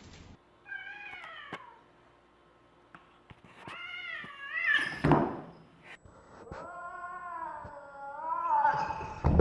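A cat meowing: three drawn-out meows that bend up and down in pitch, the last one the longest, with a short sharp thump just after the second.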